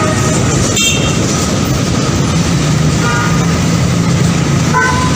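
Train running past with a steady loud rumble. A few short, high tonal blips sound over it, one about a second in and more near the end.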